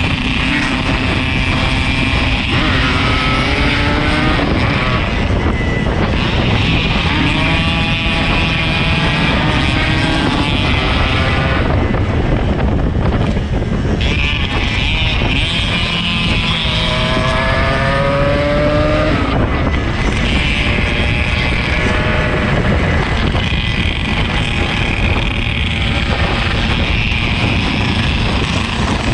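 Yamaha RX-King 135's two-stroke single-cylinder engine under way, rising in pitch several times as it accelerates through the gears, over loud road and wind noise.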